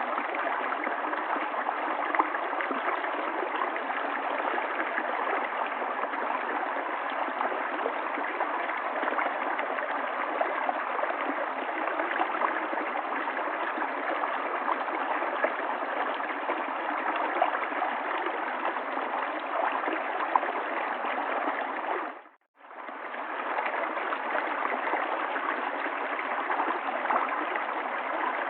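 River water flowing in a steady, continuous rush. About three-quarters of the way through it dips briefly to silence and fades straight back in.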